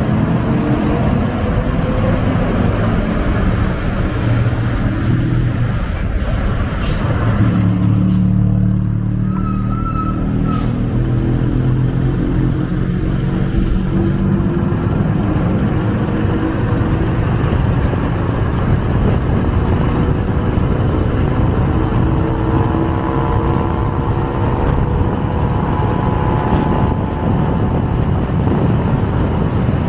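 Motorcycle engine running under way, its pitch rising and falling with the throttle, over heavy low rumble from wind and road. A brief high tone sounds about nine seconds in.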